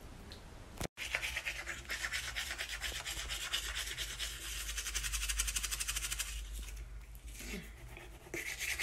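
Teeth being brushed: a toothbrush scrubbing back and forth in quick, even strokes. The brushing starts about a second in and pauses briefly near the end before it resumes.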